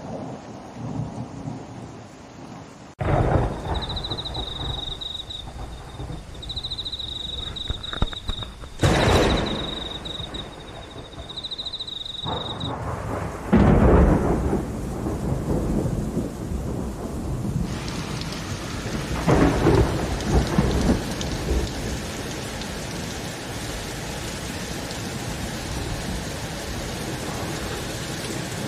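Steady heavy rain with thunder cracking and rumbling several times, the sharpest crack about nine seconds in. The rain gets suddenly louder about three seconds in. A thin, wavering high whine sounds from about four seconds in until about thirteen seconds in.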